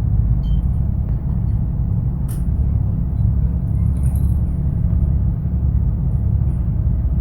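Steady low vehicle rumble, with a faint click a couple of seconds in.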